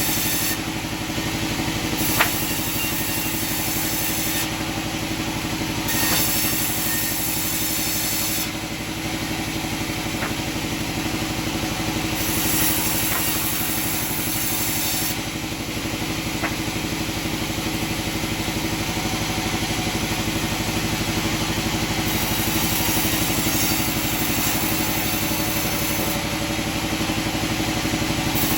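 Sawmill machinery running steadily with an engine hum, and a sharp knock about two seconds in.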